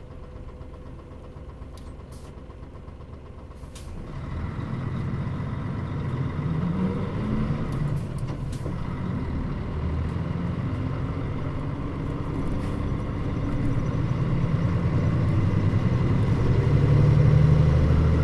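Mitsubishi Fuso (Nishi Nippon body) KL-MP35JM bus engine idling quietly for about four seconds, then pulling away. The engine note rises as it accelerates and grows louder near the end.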